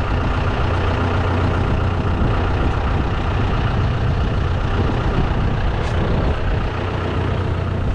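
John Deere 5100E tractor's diesel engine running steadily.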